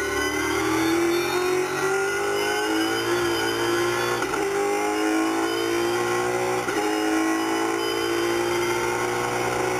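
Nissan Altima V8 Supercar's 5-litre V8 race engine accelerating hard, its pitch climbing through the revs. It is cut back by two quick upshifts, about four seconds in and again near seven seconds.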